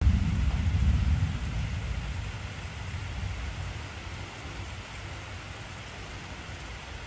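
Steady hiss of heavy rain, with a deep rumble of thunder that starts suddenly, is loudest for the first second or so, and then slowly fades away.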